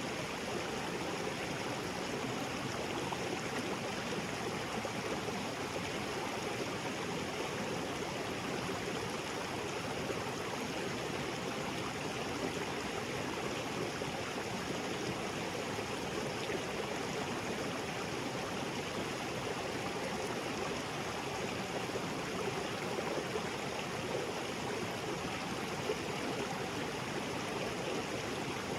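Small waterfall spilling into a rocky jungle creek: a steady, even rush of falling and flowing water.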